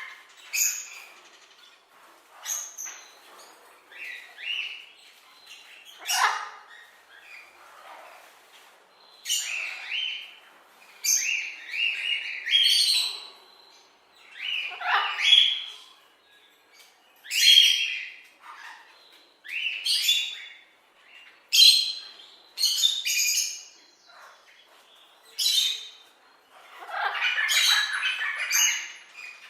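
A bird calling over and over: a string of short calls, one every second or two, with a longer, denser run of calling near the end.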